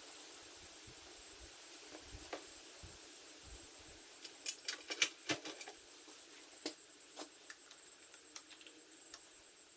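Faint, scattered clicks and taps of hand tools and small metal parts being handled during motorcycle handlebar work, with a cluster of sharper clicks about halfway through.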